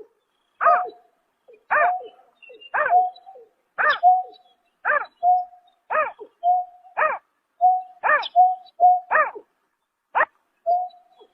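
Greater painted-snipe calling: a steady series of short hooting notes, about one a second, each a quick rise-and-fall note followed by a brief flat tone, ten or so in a row.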